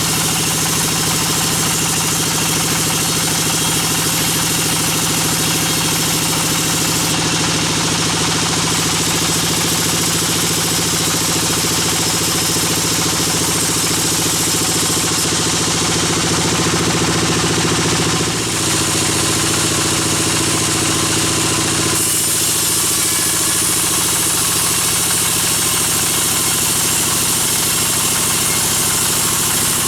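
Sawmill bandsaw machinery running with a steady, loud mechanical drone, its tone shifting slightly a few times.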